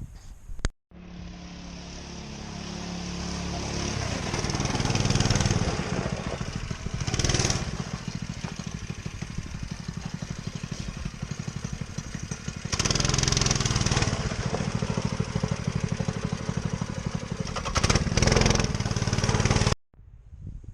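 Motoland RT200 motorcycle engine running while being ridden, revs building over the first few seconds, then rising and falling several times under throttle.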